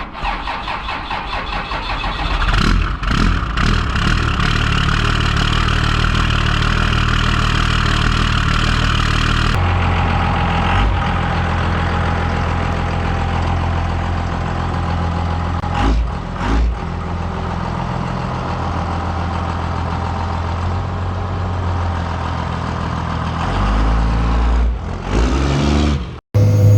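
12-valve Cummins diesel in a Dodge Ram cranking and starting from cold on a frosty morning, then idling steadily. The sound turns duller and lower about ten seconds in.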